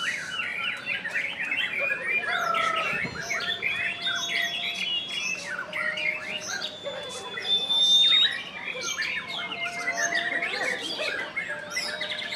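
White-rumped shama (murai batu) singing continuously at full pace: a rapid, varied stream of chattering notes, trills and harsh squawks mixed with clear held whistles, with no pauses.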